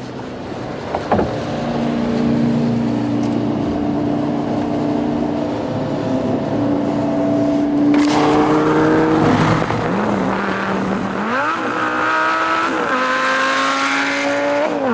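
Lamborghini Gallardo V10 engine with Quicksilver aftermarket exhausts running. For the first eight seconds the pitch climbs slowly. Then it turns louder and harsher, and the pitch rises in steps with breaks between them, like gear changes under acceleration, before falling near the end.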